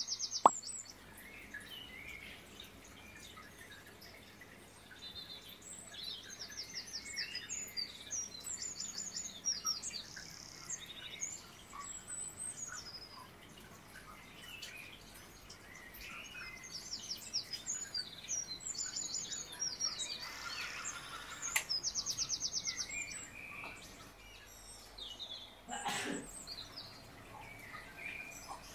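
Birdsong: several small birds chirping and twittering, with quick repeated trills now and then. A single sharp tap sounds right at the start, and a short thud near the end.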